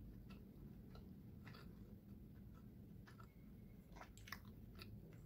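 Faint chewing of a mouthful of soft cinnamon roll with lips closed: scattered small moist clicks over a low steady background hum.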